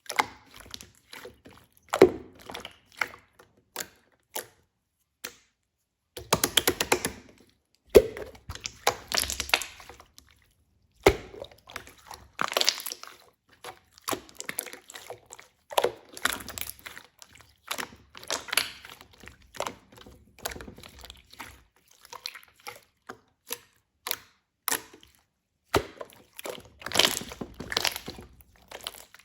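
Irregular clicks, knocks and short rustling or sloshing bursts from small objects being handled and set down, with near-silent pauses between them.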